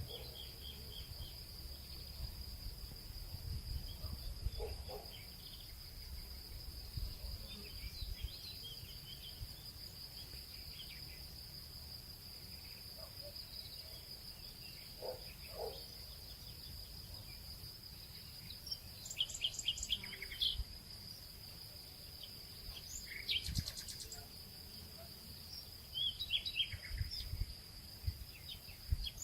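Nature ambience: a steady, high-pitched insect drone with birds chirping in short bursts now and then, more often in the last third, over a low rumble.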